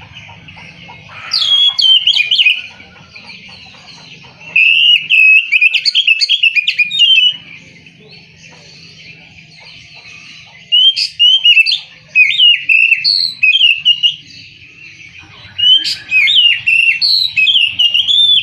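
Oriental magpie-robin (kacer) singing loud phrases of varied, quickly changing whistled notes, in four bursts of two to four seconds each with short pauses between.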